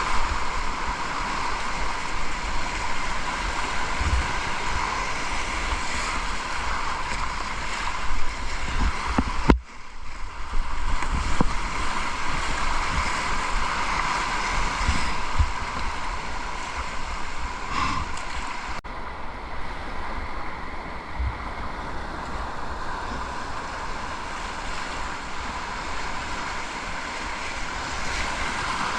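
Rushing river water running steadily, with wind buffeting the microphone; the sound breaks off for a moment about ten seconds in.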